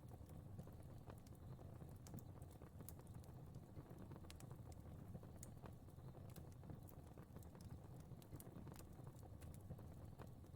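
Fire burning, crackling and popping at irregular intervals over a soft, steady low rumble of flames. Faint.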